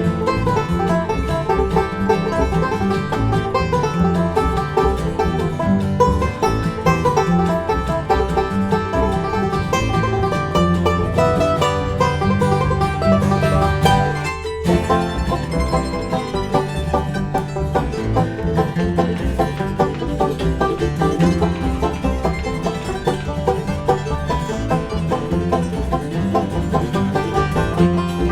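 Live bluegrass band playing an instrumental break, with the banjo prominent. The music drops out for a moment about halfway through, then carries on.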